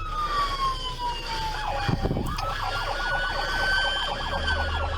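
Police car siren wailing: its pitch falls slowly, jumps back up about two seconds in, and rises slowly again. A second, rapidly pulsing tone sounds beneath it through the middle, with a brief low thud about two seconds in.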